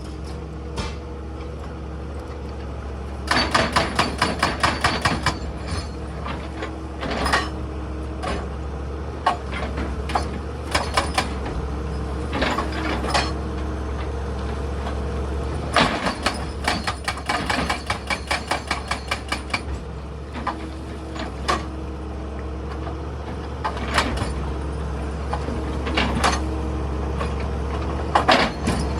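Excavator engine running steadily, with two long runs of rapid metallic clanking, several knocks a second, and scattered single knocks and clunks as the machine works on rock.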